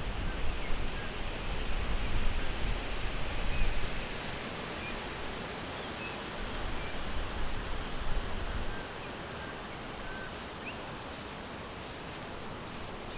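Forest ambience: a steady, even rushing background noise with a few faint, scattered bird chirps. A low rumble under it drops away about nine seconds in.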